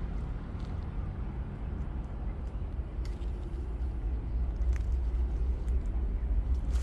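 Low, steady rumble of a CSX freight train's diesel locomotives, getting a little louder near the end, with a few faint clicks.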